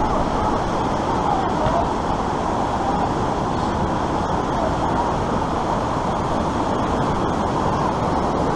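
Steady rush of white water pouring down an artificial slalom course.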